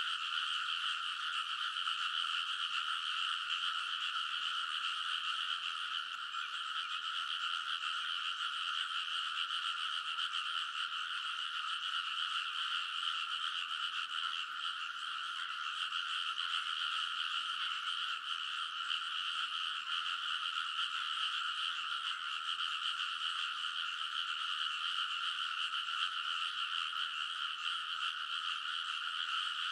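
A dense chorus of many frogs calling from the rice paddies, steady and unbroken, so many calls overlapping that no single voice stands out.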